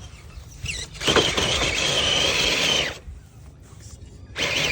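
Small electric motor and gearbox of an RC crawler whining under load as it drives for about two seconds, then a shorter burst near the end.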